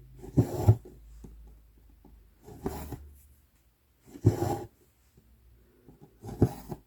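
Needle and embroidery floss pulled through 11-count Aida cloth in a steady stitching rhythm: four short rasping pulls about two seconds apart, each starting with a small pop as the needle goes through.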